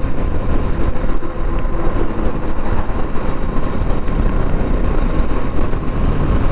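Steady, loud road noise from vehicles, with no single pass-by standing out.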